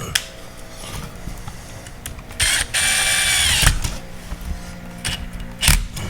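Handheld power drill/driver run in two short bursts, a quick blip and then about a second of spinning that winds down as it stops, with sharp clicks and knocks of tools being handled before and after.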